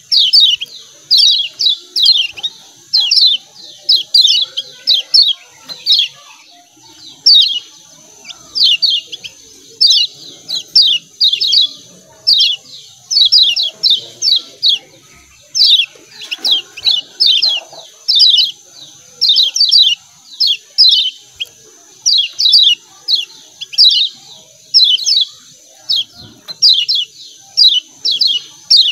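Kecial kuning (Lombok yellow white-eye) giving its rapid 'ciak ciak' chirps: short, high, downward-sliding notes in quick clusters of two to four, repeating about once a second, over a faint steady high hiss.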